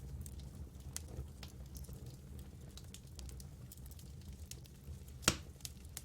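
Campfire crackling, with scattered small pops of burning wood and one louder pop about five seconds in, over a steady low rumble.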